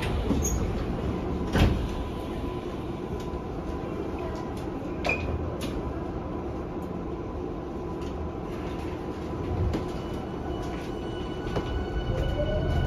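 Doors of a Yokohama Minatomirai Y500 series subway car sliding shut with a sharp knock about one and a half seconds in, then the car standing with a steady hum and a few small clicks. Near the end the train's Hitachi IGBT inverter begins a rising whine as it starts to pull away.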